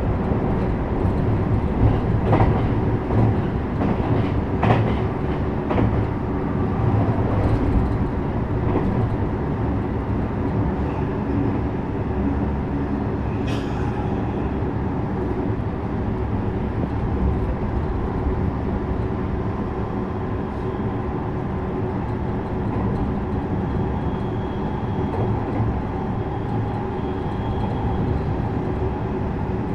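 JR West 321 series electric train running, heard from inside the car: a steady rumble of wheels on rails, with a run of sharp clicks over the first several seconds.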